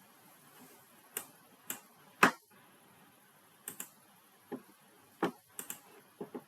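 About a dozen scattered, irregular clicks at a computer, the loudest a little over two seconds in, over a faint room hiss.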